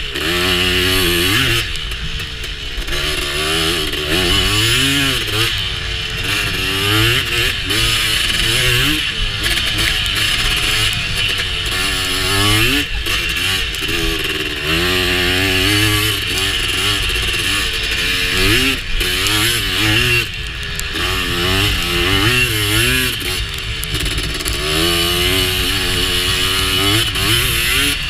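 Honda TRX250R's two-stroke single-cylinder engine being ridden, revving up and down over and over as the throttle is worked.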